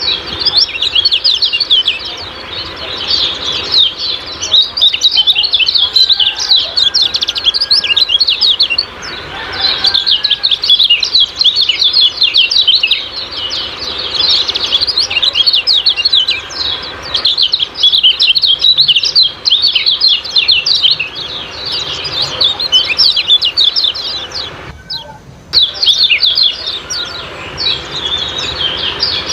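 Kecial kuning white-eye singing its rapid 'ciak-ciak' chirping song: dense, high, quick chirps pouring out in long runs with brief pauses, and a short break about 25 seconds in.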